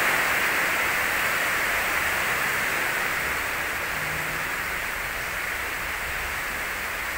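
Heavy rain hissing steadily on a corrugated metal roof, slowly growing quieter as the rain eases off.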